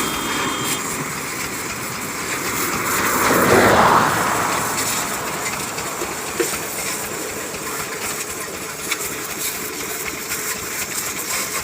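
Tractor running under load while hauling, a steady noisy engine and running rattle that swells louder about three and a half seconds in.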